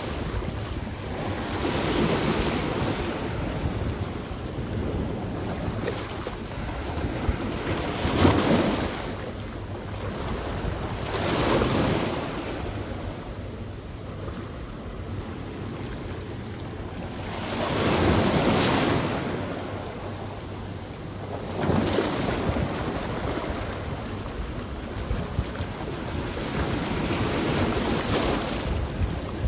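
Sea waves washing onto the beach, swelling and falling away in about six surges a few seconds apart, with wind buffeting the microphone underneath as a low rumble.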